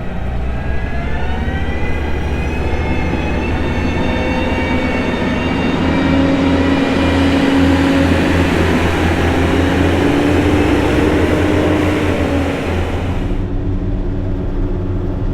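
Motor grader's diesel engine running under load, its pitch rising over the first few seconds and then holding steady, before easing off near the end.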